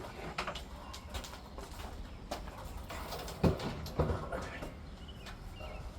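Handling clatter of a vintage metal box fan being moved: scattered clicks and knocks, with two heavier thumps about three and a half and four seconds in as it is set down.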